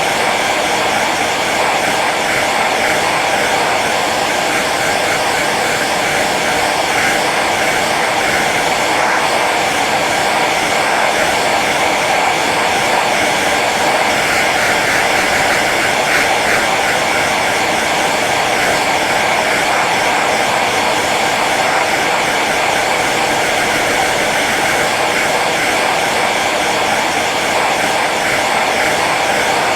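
Hair dryer running on its low setting: a steady, even rush of blown air over the hum of its fan motor.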